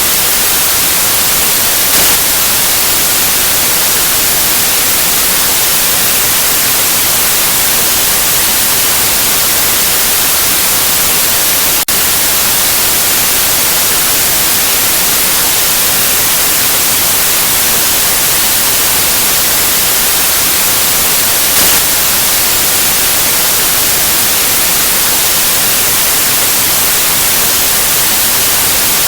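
Steady, loud white noise: an even hiss with no tones or rhythm, briefly dipping with a click about twelve seconds in.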